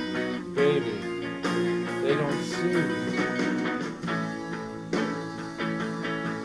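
Instrumental guitar music with plucked strings.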